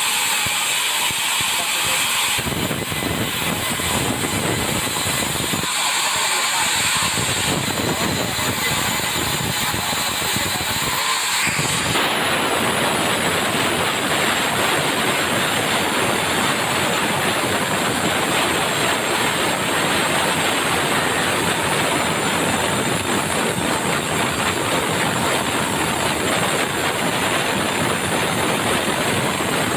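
Sawmill saw running and cutting through a log, a steady loud mechanical rush of blade, motor and wood. It becomes fuller and lower about twelve seconds in.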